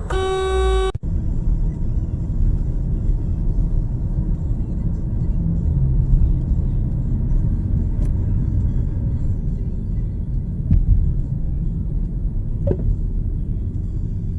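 Steady low rumble of a moving car as picked up by a dashcam, with a few faint knocks. Before it, a steady electronic tone sounds for about a second and cuts off abruptly.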